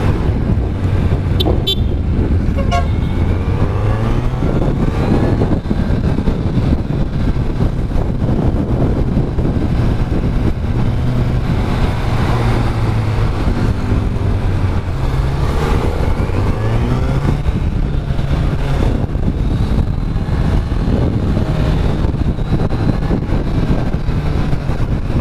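Kawasaki Z900's inline-four engine running on the move, its pitch rising and falling as the rider opens and closes the throttle, with heavy wind rush over it. A vehicle horn toots briefly about two seconds in.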